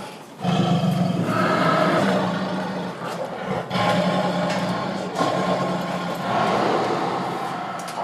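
Lion growling and roaring in long, low stretches, broken by short pauses.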